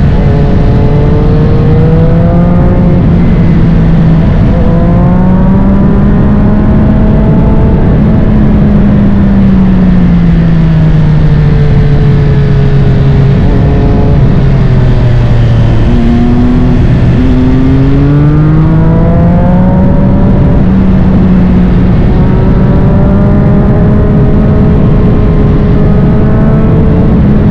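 Triumph Street Triple 765 RS inline three-cylinder engine through a full Spark Grid-O exhaust, heard while riding: it revs up through a gear change, eases off with the pitch falling for several seconds, drops sharply about halfway, then pulls up again and holds a steady speed.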